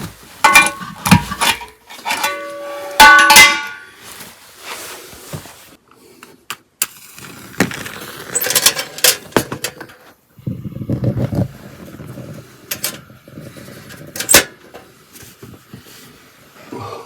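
Metal cookware and utensils being handled: sharp clinks and knocks, the first few ringing on briefly, then scattered clicks, rubbing and a last sharp knock.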